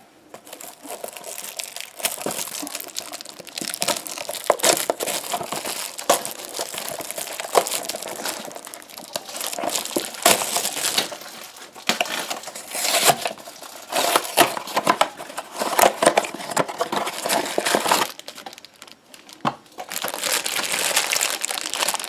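Funko Mystery Minis blind-box packaging being torn open and crinkled by hand: a dense, irregular run of crackles and rustles, with a short lull near the end before the crinkling starts up again.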